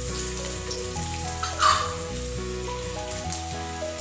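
Garlic cloves and ginger sizzling in hot oil in an iron kadhai, with a steady hiss. There is one brief louder crackle about one and a half seconds in.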